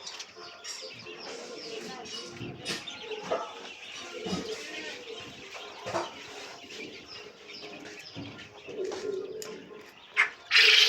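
A flock of captive quail chirping and calling, with many short high notes and scattered clicks throughout. Near the end comes a short, loud burst of noise.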